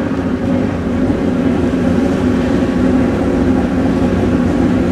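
Pro Xtreme drag-racing motorcycle engines running with a steady drone that holds the same pitch throughout.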